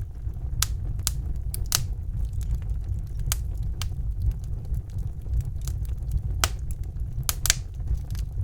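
Wood fire burning in a fireplace: a steady low rumble of flames with irregular crackles and pops, several sharper snaps scattered through, the loudest near the end.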